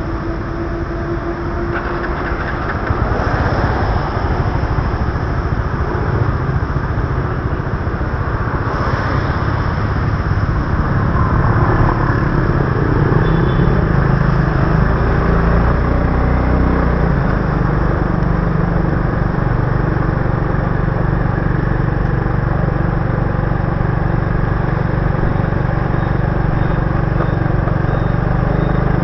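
Motorbike engine running steadily under way, heard from the bike, with road and traffic noise from the wet city street around it. The engine grows a little louder over the first ten seconds or so, then holds steady.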